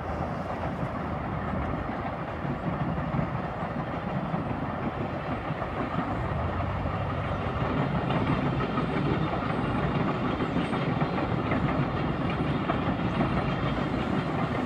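Long Island Rail Road electric commuter train passing at a distance, a steady rumble of wheels on rail.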